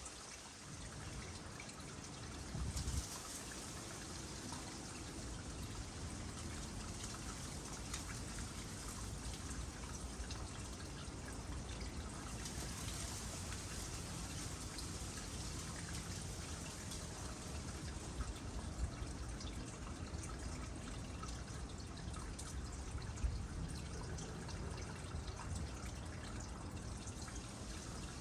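Water trickling steadily into a small pond, with scattered drips. There is a brief low thump about three seconds in.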